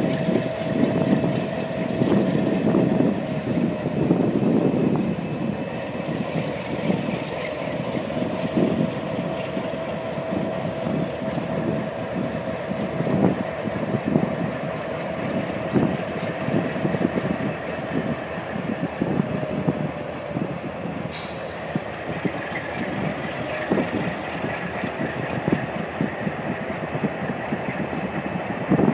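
Diesel locomotives growling as they work a nearly fully loaded grain train. A steady whine runs under the engines, with frequent knocks and clanks from the moving wagons. The rumble is heaviest for the first few seconds.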